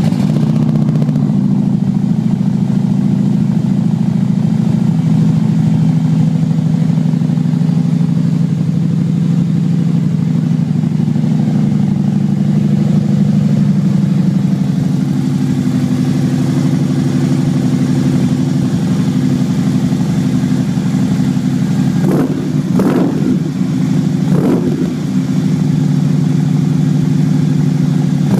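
Harley-Davidson Street Glide's V-twin idling steadily through Harley CFR slip-on mufflers. About three-quarters of the way through, the throttle is blipped three times in quick succession, each a short rev that rises and falls back to idle.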